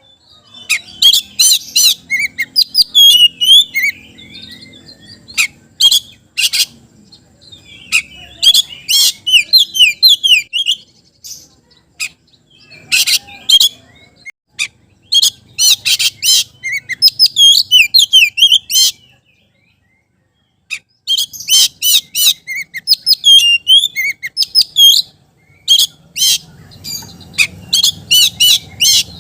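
Oriental magpie-robin (kacer) singing hard in loud, fast phrases of sharp whistles and chirps, with a break of about two seconds about two-thirds of the way through.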